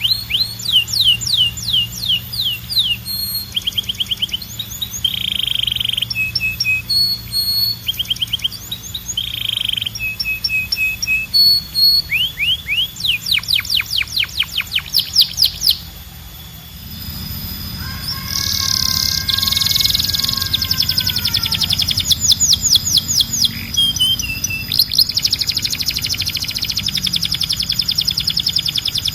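Canary singing: fast trills and rolls of rapidly repeated notes, mixed with short, steady whistled notes. There is a brief lull just past halfway, after which the song comes back with a few held, lower notes before the fast trills resume.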